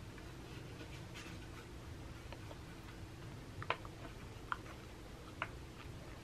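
Faint rustling with three small, sharp clicks a bit under a second apart in the second half, over low room hum.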